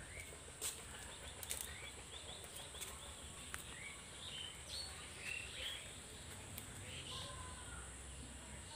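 Small birds chirping in short, scattered calls over a steady high hiss, with a few sharp clicks in the first few seconds.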